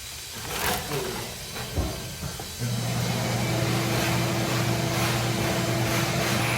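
A few knocks and rustles of handling, then about two and a half seconds in a steady machine hum starts suddenly and keeps going.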